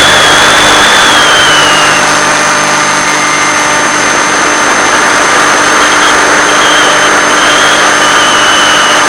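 Finwing Penguin FPV plane's electric motor and propeller running steadily under a dense, loud hiss, with a thin high whine that wavers in pitch and breaks up after about two seconds.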